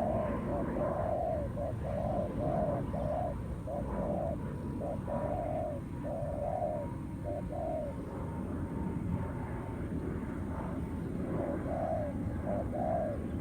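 Spotted doves cooing: runs of short, low, soft coo notes repeated over and over, with a pause of a few seconds past the middle before the cooing resumes, all over a steady low rumble.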